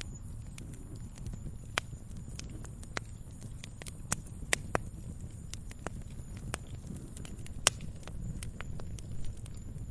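Campfire crackling: irregular sharp pops and snaps of burning wood, a few a second, over a steady low rumble. The sharpest pop comes about three-quarters of the way in.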